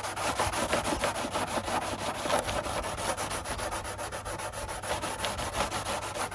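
240-grit sandpaper rubbed by hand along the cut edge of a perspex scooter windshield in quick back-and-forth strokes, several a second, smoothing off the burrs left by cutting.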